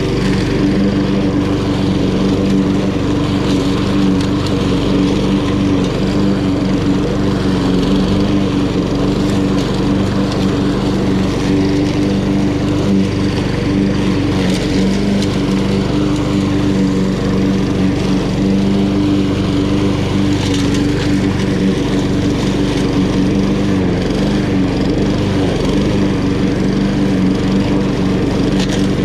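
Honda HRN216 walk-behind lawn mower with its GCV170 single-cylinder four-stroke engine running steadily at constant speed while cutting grass.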